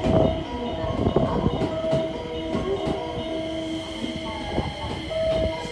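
JR West 223 series and 225 series electric multiple-unit train pulling into the platform, its running gear giving steady whining tones that come and go, over low rumbling and a few knocks.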